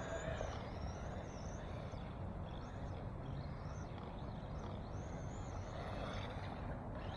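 Electric motor of an RC drift car whining faintly as it revs up and down, the pitch rising and falling again and again, over a steady low background rumble.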